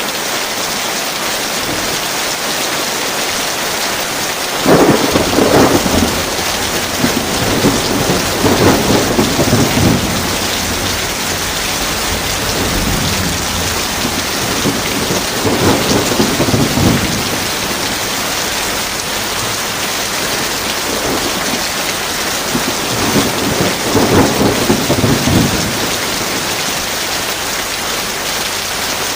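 Heavy rain falling steadily, with rolls of thunder rumbling over it about five seconds in, again around eight to ten seconds, near the middle and in the later part.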